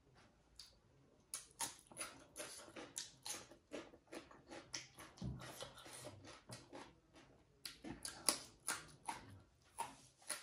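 Close-miked chewing and lip-smacking while eating boiled egg and rice: a quick run of wet mouth clicks, several a second.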